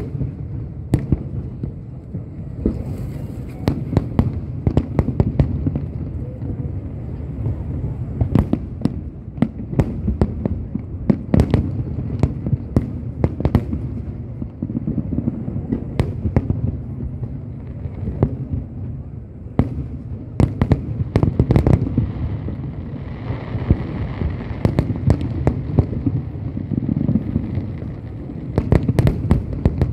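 Aerial fireworks display bursting in a continuous barrage: dozens of sharp bangs, some in quick clusters, over a steady low rumble.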